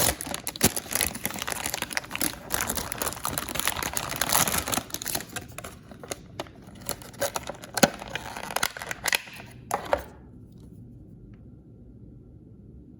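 Packaging crinkling and tearing by hand as a blind bag is opened, with scattered sharp clicks and taps; it stops about ten seconds in, leaving quiet room tone.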